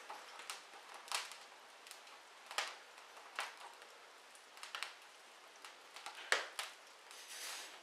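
Wood fire crackling in a fireplace: irregular sharp snaps and pops over a faint hiss, the loudest pop about six seconds in, followed by a brief hiss near the end.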